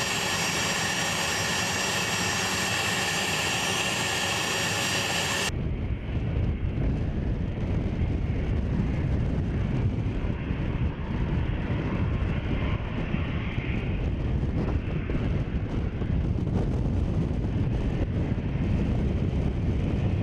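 Twin General Electric TF34 turbofan engines of an A-10 Thunderbolt II running with a steady high-pitched whine. About five and a half seconds in, the sound cuts abruptly to a deeper, rougher engine rumble.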